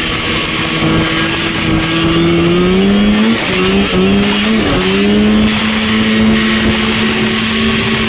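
Snowmobile's Rotax 503 two-cylinder two-stroke engine running under throttle over a rushing track and wind noise. Its pitch climbs about three seconds in, dips and recovers a couple of times, then holds steady at the higher speed.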